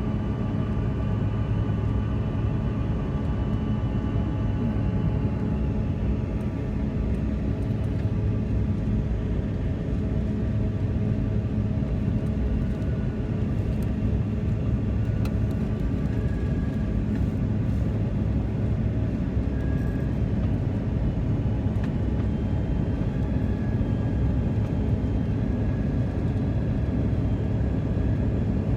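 Steady engine and airflow noise inside a jet airliner's passenger cabin in flight, with a low hum carrying a few held steady tones.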